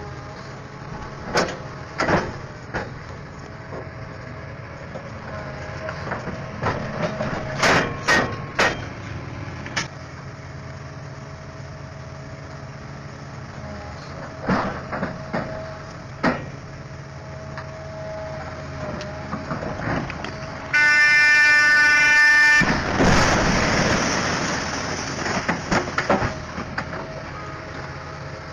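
Heavy machinery engine running steadily, with scattered metallic knocks and clanks. About three-quarters through, a horn sounds for about a second and a half, followed by a few seconds of loud rushing noise.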